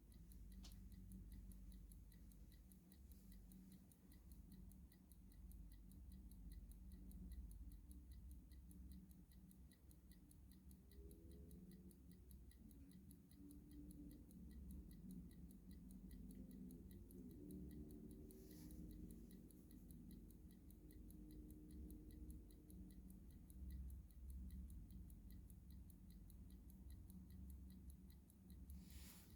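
Faint, steady, even ticking of a clock.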